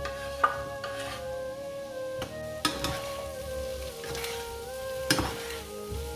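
Food sizzling as it fries in a pan while a utensil stirs it, with a few sharp knocks and scrapes against the pan, about a half second, one second, two and a half seconds and five seconds in. Soft background music plays throughout.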